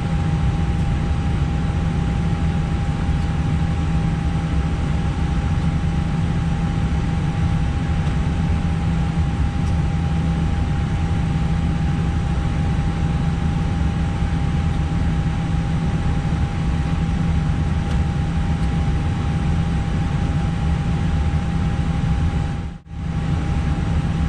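Steady cabin noise in an Airbus airliner's cockpit, the engines and air systems running, with a constant low hum and one steady high tone. The noise cuts out for an instant near the end.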